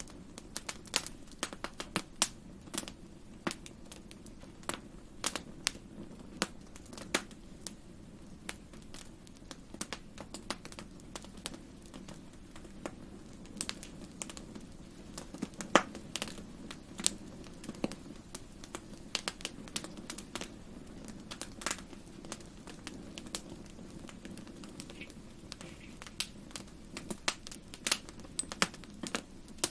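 Wood campfire crackling: irregular sharp pops and snaps, several a second at times, over a steady low background of burning, with the loudest pop about sixteen seconds in.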